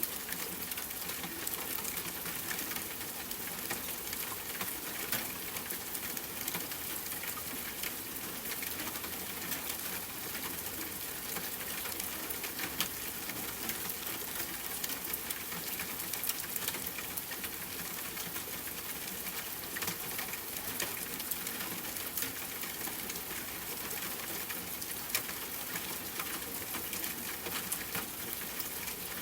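Steady rain pattering on a tent, mixed with a crackling campfire: a constant hiss with many small sharp pops scattered throughout.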